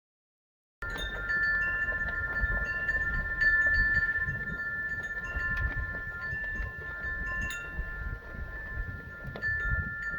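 Wind chimes ringing, with long overlapping tones and scattered higher notes struck now and then, over wind rumbling on the microphone. The sound starts abruptly about a second in.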